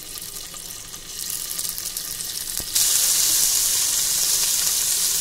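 Paneer cubes sizzling in hot mustard oil in a frying pan. The hiss is moderate at first, then jumps suddenly to a loud, steady sizzle about two and a half seconds in.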